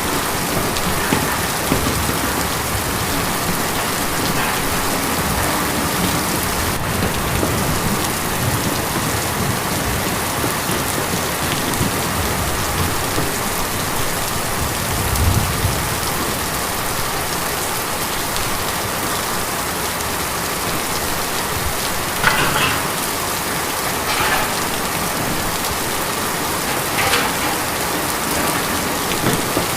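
Steady rain falling on a tin roof, an even hiss of drops with a few heavier drops landing louder now and then.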